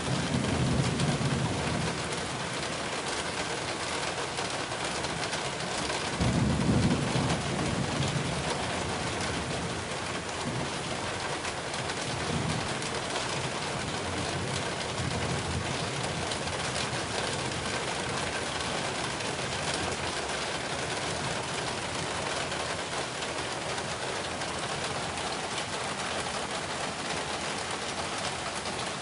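Heavy rain falling in a steady hiss. Low rumbles swell up a few times, loudest about seven seconds in.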